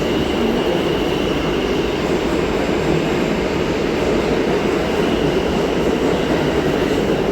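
New York City subway train running along the rails: a steady, loud rumble of steel wheels on track, with a faint high wheel squeal coming and going.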